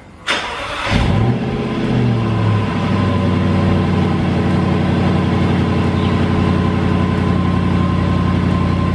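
Jaguar XFR's supercharged V8 being started: it cranks briefly, catches about a second in with a short flare of revs, then settles into a steady idle.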